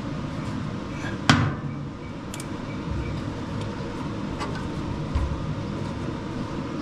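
Hand work on a riding mower's belt and pulleys: one sharp knock about a second in and a few faint clicks, over a steady low hum.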